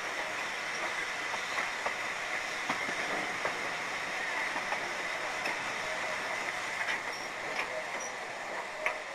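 Heritage railway coach rolling along the track, heard from an open window: a steady running noise of wheels on rail, with irregular sharp clicks as the wheels pass over rail joints.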